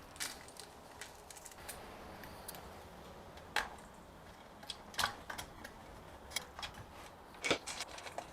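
Light metallic clicks and rattles of a saw chain being handled and fitted onto a chainsaw bar. The clicks come at irregular moments, the sharpest about three and a half, five and seven and a half seconds in.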